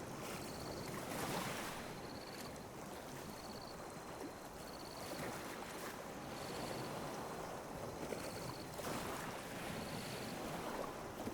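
Calm sea waves lapping on a beach, swelling and easing in gentle surges every few seconds. A faint high chirp repeats evenly about once a second underneath.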